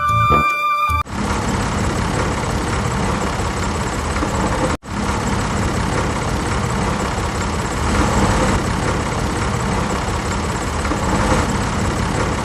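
Small motor of a miniature DIY model tractor running steadily, a whirring noise with a faint low hum, briefly cut off about five seconds in. Background music at the very start.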